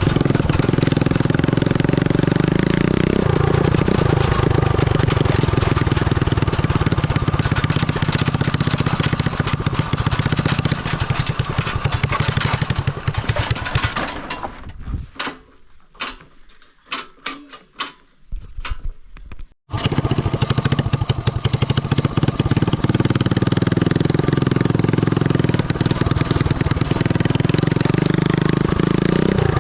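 A 250cc motorcycle engine on a home-built go-kart running loudly. About fourteen seconds in it dies away to a few seconds of near quiet broken by scattered clicks. It is abruptly running again from about twenty seconds in.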